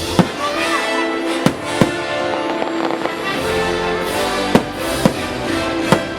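Fireworks exploding, about six sharp bangs spread across the few seconds, some close together, over orchestral show music.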